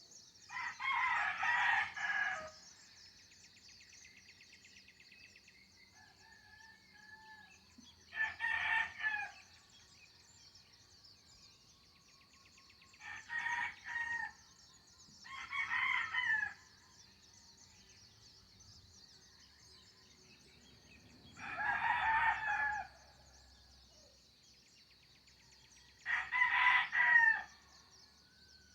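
Roosters crowing over and over, six cock-a-doodle-doos in turn, each a second or two long and a few seconds apart, over a steady high hiss of insects, with faint bird chirps between the crows.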